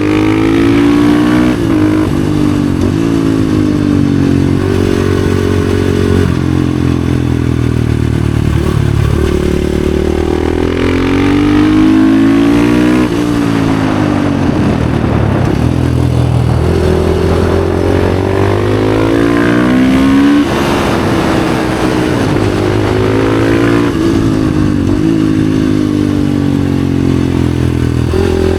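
Husqvarna FE 450 four-stroke single-cylinder enduro bike with an FMF exhaust, ridden hard: the engine revs climb, break at each shift and climb again, then wind down as it slows for bends and pulls away again.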